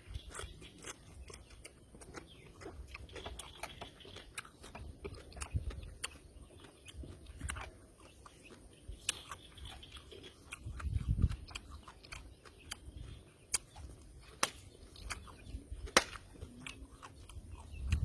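A man chewing and biting raw fish and crunchy papaya salad close to the microphone, with many short wet mouth clicks and smacks scattered throughout.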